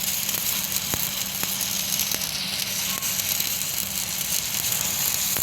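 Electric arc welding: the arc's steady crackle and sizzle, with a few sharp pops and a steady low hum underneath.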